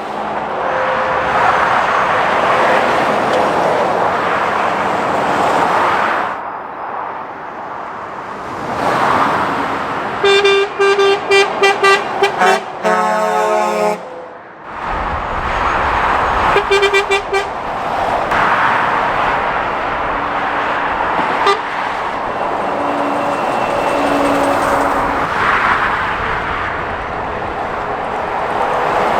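Lorries and cars passing at speed on a dual carriageway, their tyre and engine noise swelling and fading with each pass. Partway through, a vehicle horn sounds: a quick run of short toots, then a longer blast, and a few seconds later another short run of toots.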